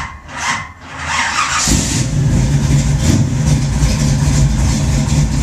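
A hot-started 468 big-block V8 with a Muther Thumper roller cam. The starter cranks weakly for about a second and a half before the engine catches, then the engine runs with a steady, heavy low rumble. The owner puts the weak cranking down to a small trunk-mounted battery and an undersized cable.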